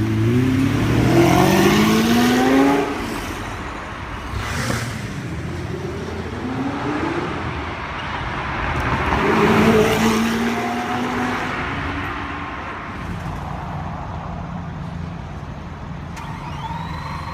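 Supercar engine accelerating hard, its pitch climbing for about three seconds, then easing off. A second surge of acceleration rises about nine seconds in.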